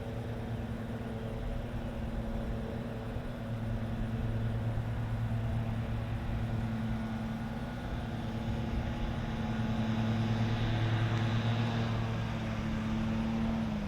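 A steady motor hum with a low, even pitch, slightly louder around the middle of the stretch, that slides down in pitch at the very end.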